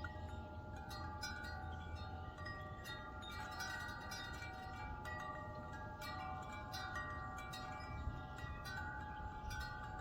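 Wind chimes ringing in a breeze, struck again and again so that several bell tones overlap and ring on, over a low rumble of wind.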